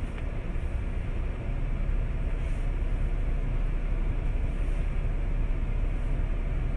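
Steady low rumble of an idling car engine, heard from inside a stopped car.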